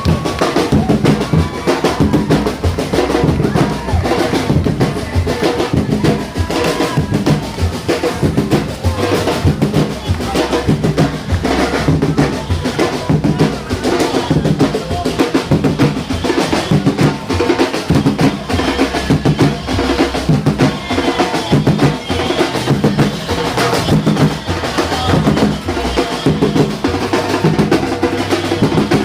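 Parade drums playing a steady marching beat, with rolls among the strikes.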